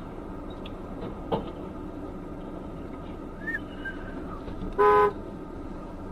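A car horn gives one short beep near the end, over a steady hum of traffic and engine noise. A sharp knock sounds about a second in.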